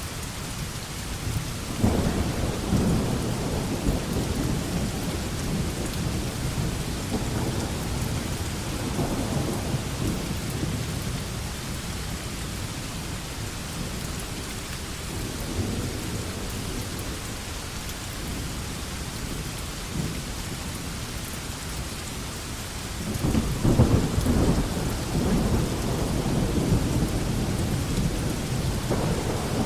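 Steady rain falling on a veranda, with low rumbling swells about two seconds in and again near the end.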